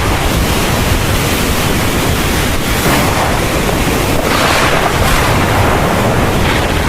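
Heavy thunderstorm: rain pouring steadily over a deep low rumble of thunder, with a brief swell of rushing noise a little over four seconds in.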